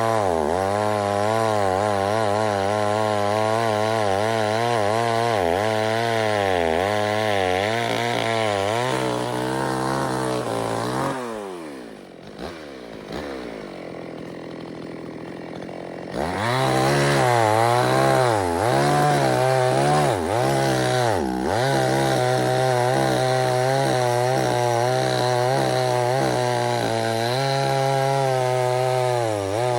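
Two-stroke chainsaw running hard, its engine pitch wavering up and down as the revs change. About 11 s in the revs fall away and it goes quieter for a few seconds, then it comes back up to full revs suddenly about 16 s in.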